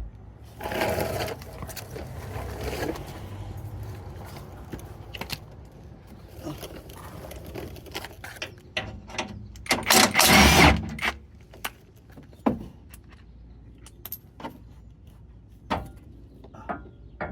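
Cordless impact driver running in short bursts on 15 mm skid plate bolts, the loudest burst about ten seconds in. Between the bursts come clinks and knocks of metal tools and bolts.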